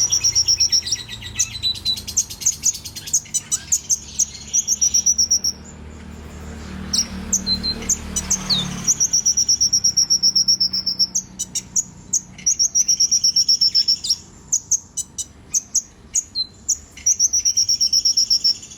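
A young songbird singing: long runs of fast, high repeated notes and trills, broken by a short pause with scattered calls about six to nine seconds in.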